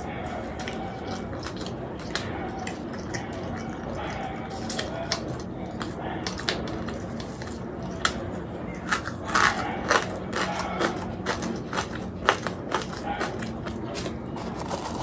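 Close-miked biting and chewing of a crispy posto bora, a fried poppy-seed fritter, with a run of sharp crunches that thickens from about five seconds in and eases off near the end.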